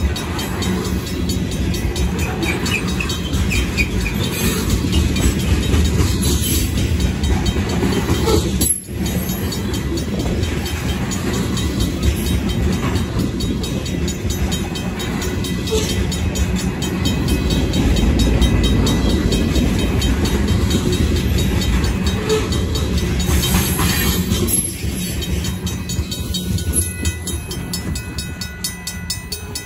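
Union Pacific freight train's covered hoppers and tank cars rolling past a grade crossing: a steady, loud rumble of steel wheels on the rails. The crossing's RACO mechanical bell rings faintly and evenly over it, and the rumble fades over the last few seconds as the end of the train goes by.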